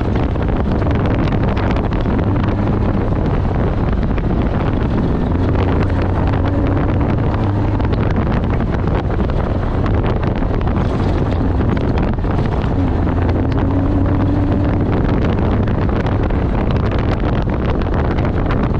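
Off-road race vehicle at speed over rough ground: engine note rising and falling as it shifts and changes throttle, under a loud rattle of the chassis and steady wind buffeting on the microphone.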